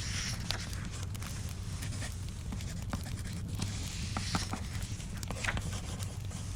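Wood fire crackling, with scattered sharp pops over a steady low rumble, and a couple of brief papery swishes of book pages being turned, near the start and about four seconds in.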